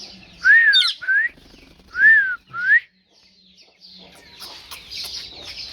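Four clear arched whistles in two pairs, then a pet parrot's quick high chirping and chattering from about four seconds in.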